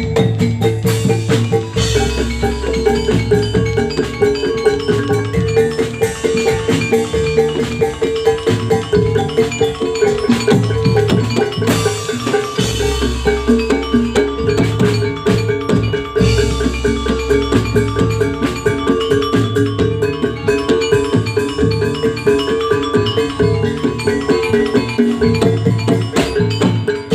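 Instrumental jathilan gamelan music without singing: metal mallet instruments playing fast repeated melodic patterns over a steady drum beat, with a held ringing note underneath.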